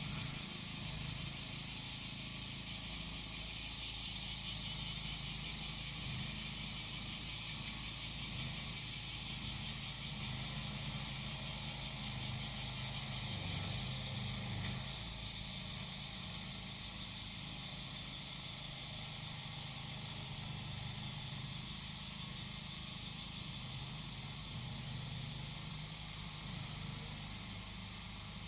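Cicadas singing in a dense, pulsing chorus over the steady low drone of a grass-cutting machine's small engine running. A louder pulsing cicada call stands out during the first several seconds and again later on.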